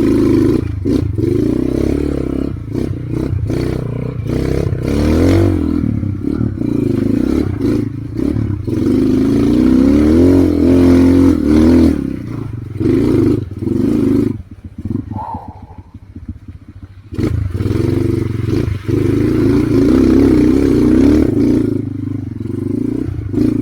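Trail motorcycle engine revving up and down under load on a rough climb, with clattering knocks. About fifteen seconds in it drops to a low, fast-pulsing idle for a couple of seconds, then revs again.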